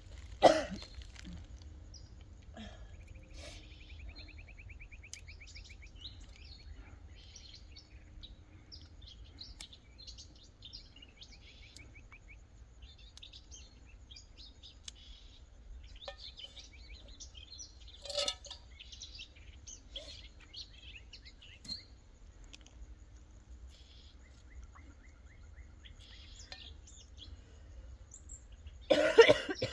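Small birds chirping and twittering, with a rapid buzzy trill about three seconds in and again near 25 seconds, over a low steady rumble. A sharp knock sounds about half a second in, and a person coughs near the end.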